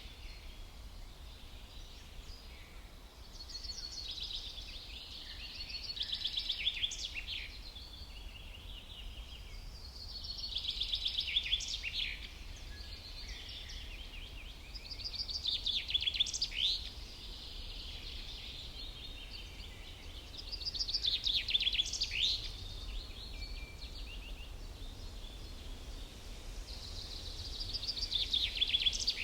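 A songbird singing, repeating the same short phrase five times: a quick run of rapid notes that ends in falling sweeps, about every five to six seconds. A steady low rumble runs underneath.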